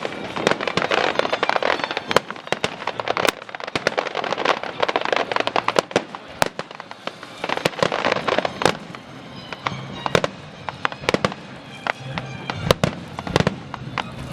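A dense, irregular run of sharp bangs and crackles, many in quick succession, with a few louder single cracks standing out.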